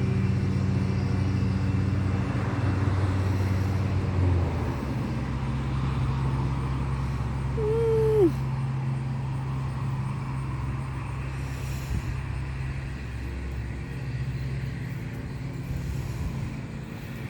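Lawn mower engine running steadily in the background, its hum shifting slightly about four seconds in. A short falling squeak sounds once, about eight seconds in.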